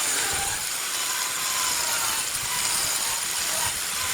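Wood lathe spinning a jackfruit-wood workpiece while a turning tool cuts it, giving a steady hissing noise with a faint wavering whine.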